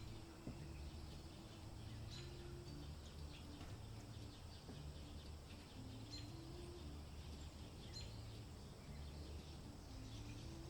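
Soft ambient background music: low sustained tones under a slow melody that steps from note to note, with scattered short bird chirps over it.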